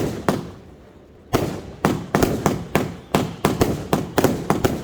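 Nico 'Sun Shower' firework battery firing: two sharp bangs at the start, a lull of about a second, then a quick run of sharp reports, three or four a second.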